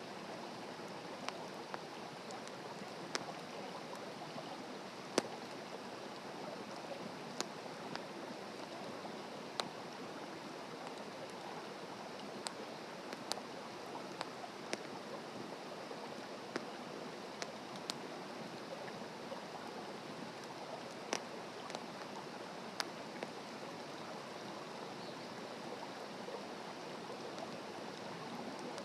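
Wood fire burning with a steady rush and sharp crackles and pops at irregular intervals, every second or two.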